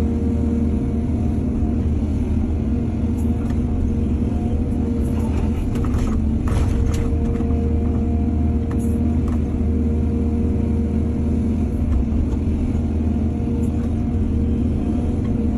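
Heavy diesel excavator engine running steadily, with a few short clanks and scrapes around the middle.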